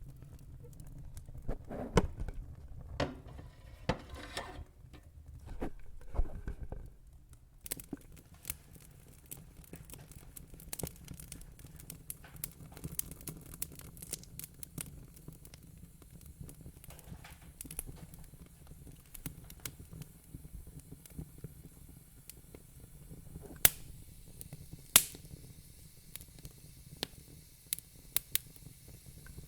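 Fire crackling: a constant scatter of small snaps and pops over a low, steady rumble. Two louder, sharper pops come about a second apart roughly three-quarters of the way through.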